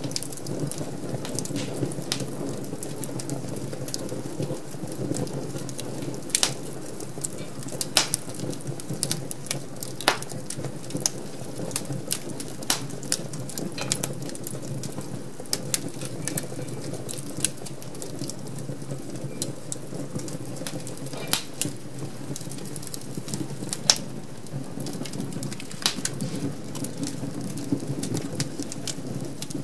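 Wood fire burning in an open fireplace, a steady low rush of flame with irregular sharp crackles and pops from the burning logs, some of them loud.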